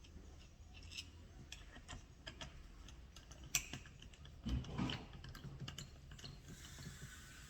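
Irregular light clicks and taps of hand tools and small metal parts as a starter motor is taken apart, with one sharper click about three and a half seconds in and a duller knock about a second later.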